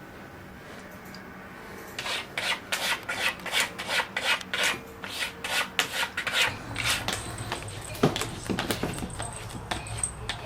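A cat's paws scraping again and again at a surface in the burying (covering) gesture, a run of short rasping strokes at about two to three a second, beginning about two seconds in.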